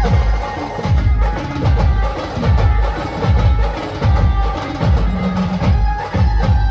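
Brass band playing a sambal rhythm: heavy drum strokes, each with a falling boom, about one to two a second, under a held, reedy melody line.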